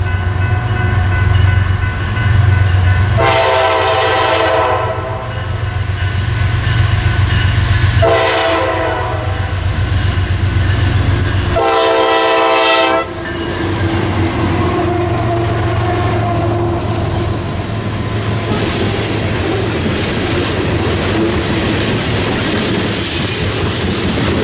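Passing train with a low engine sound, its locomotive horn sounding three blasts of a second and a half or more each, then railcars rolling by with wheels clicking over the rail joints.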